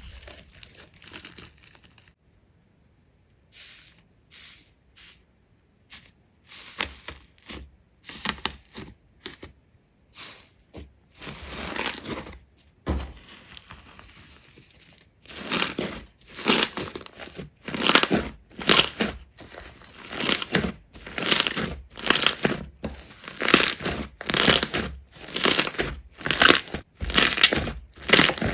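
Slime being worked by hand close to the microphone, giving crackling, tearing sounds. The first half is scattered and irregular, with a short near-silent pause early on. From about halfway it settles into a steady rhythm of presses, roughly two a second.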